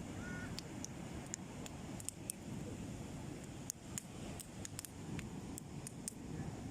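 Beach bonfire crackling, with a dozen or so sharp pops and snaps scattered through, over a steady low rumble of wind and surf.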